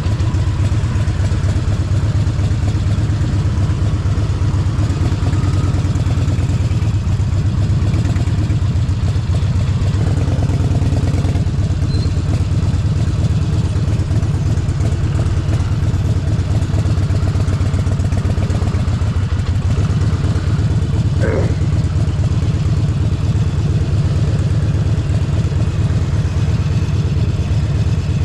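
Harley-Davidson Forty-Eight Sportster 1200's air-cooled V-twin engine running steadily, its deep exhaust pulse heard close up.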